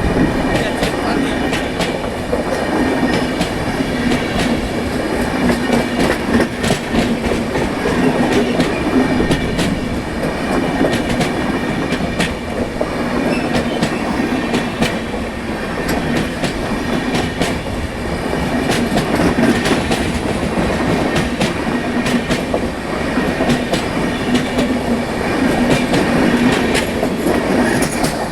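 Train running at speed: a steady rumble of coaches on the track, with the rapid clickety-clack of wheels over rail joints.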